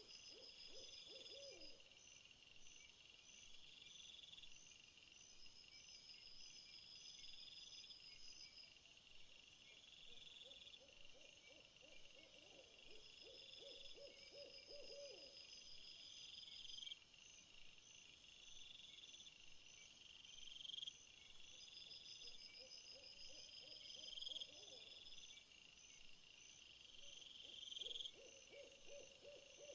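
Faint nature soundscape: insects chirping steadily in fast, high-pitched pulses, and a low wavering animal call of a few seconds that recurs about four times.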